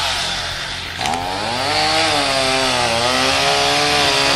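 Two-stroke chainsaw running at high speed while cutting dead tree limbs, its engine pitch sagging and recovering as the chain bites into the wood, with a short sharp crack about a second in.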